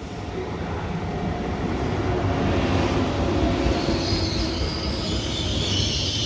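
Frecciarossa high-speed train arriving at the platform: a rumble of wheels on rails that swells at the start, with a high-pitched squeal joining from about four seconds in.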